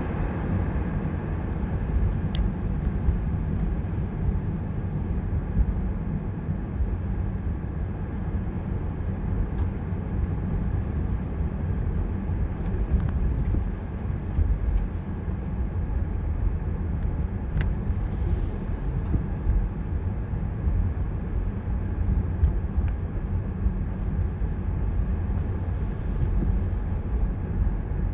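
Car driving on a snowy road: a steady low rumble of road and engine noise, with a couple of faint ticks.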